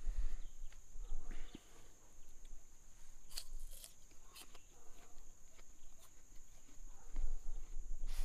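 Raw apple slices being bitten and chewed close to the microphone: a string of short, crisp crunches, thickest a few seconds in.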